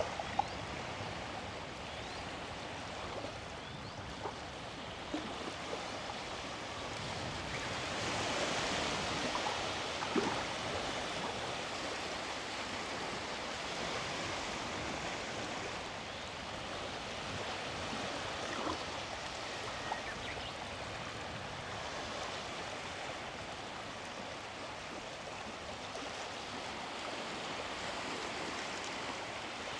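Sea waves washing onto the beach: a steady wash of surf that swells louder about eight to ten seconds in, with a few faint clicks.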